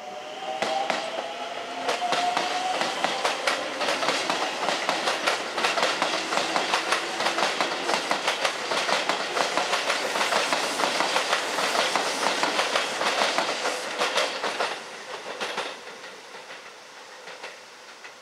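Keisei electric train running close by, its wheels clattering fast and evenly over rail joints and points for about twelve seconds, then fading. Near the start a falling whine from electric traction motors.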